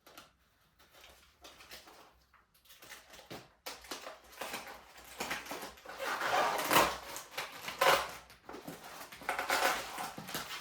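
Rustling, scraping and light knocks of bike parts and packaging being handled, as the wrapping comes off a mountain bike's dropper seat post. The handling starts about four seconds in and is busiest in the second half.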